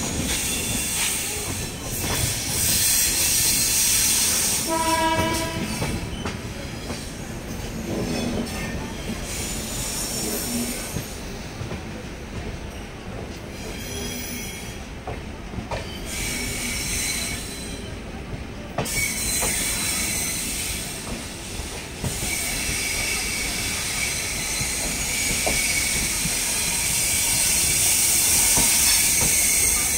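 Indian Railways passenger train running, heard from its own coach window: the wheels clatter and rumble over the track. A train horn sounds briefly about five seconds in, and high-pitched wheel squeal comes in through the later part.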